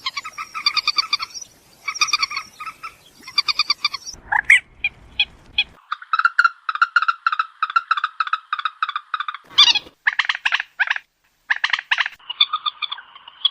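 Moorhen calling: fast runs of short, clucking notes at several a second, repeated in bursts, with a brief silence about two-thirds of the way through.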